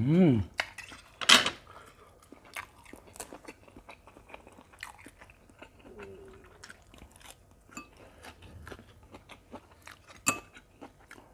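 Close-miked chewing of springy beef-tendon meatballs and a lettuce leaf: many small wet clicks and crunches, with a sharp bite about a second in and another near the end. A brief rising 'mm' is hummed at the very start.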